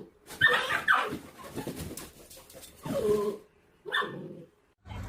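A dog vocalizing in three separate calls: the loudest about half a second in, another around three seconds in and a short one near four seconds.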